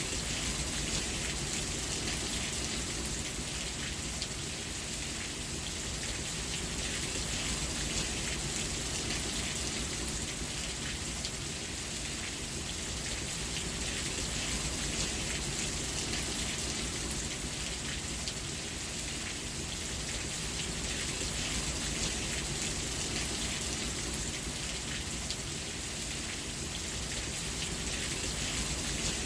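Steady rain falling, a dense patter of drops on a surface with an even hiss.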